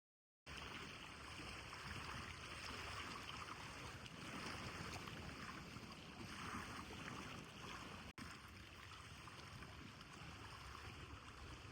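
Steady rushing outdoor noise that starts abruptly about half a second in and drops out for an instant about eight seconds in.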